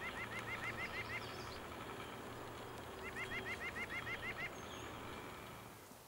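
A bird calling in two runs of quick rising notes, about seven a second. One run comes at the start and the other about three seconds in, over a faint low hum.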